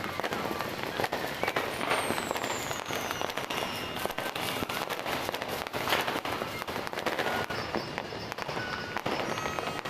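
New Year fireworks and firecrackers going off all around in a continuous barrage of overlapping bangs and crackles. A thin falling whistle sounds about two seconds in.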